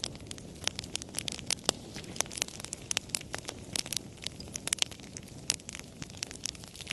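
Campfire crackling: irregular sharp pops and snaps, several a second, over a steady low rustle of burning.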